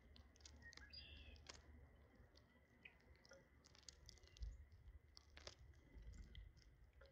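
Small birds pecking and cracking seeds, heard as faint, scattered sharp clicks and taps. A brief high chirp comes about a second in.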